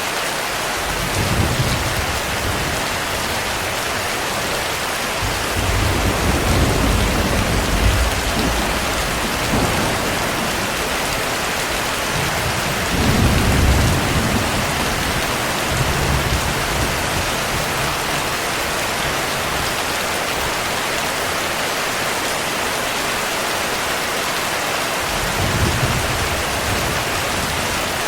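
Steady heavy rain with rolling thunder. Low rumbles swell up about a second in, for several seconds from about six seconds, again around thirteen seconds, and briefly near the end.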